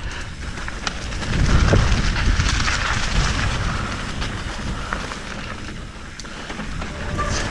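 Mountain bike riding down a dusty dirt trail: tyres crunching over loose dirt and stones with scattered rattles, and wind rumbling on the microphone, heaviest from about one to three seconds in.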